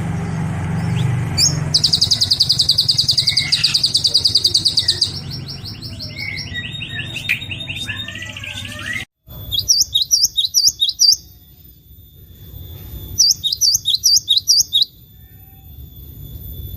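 Songbird calls from two different recordings joined by an abrupt cut: first a fast trill of evenly repeated high notes, then two runs of quick, sharply pitched chirps.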